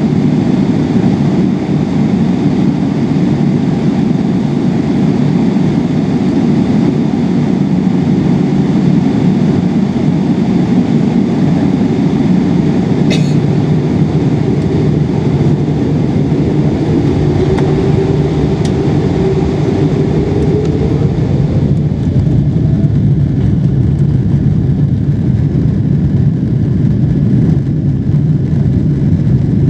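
Loud, steady cabin noise of a Boeing 777 taking off: engine roar and rumble heard from inside the cabin. A single click comes about halfway through. Near the end a whine rises in pitch and the higher hiss suddenly thins out.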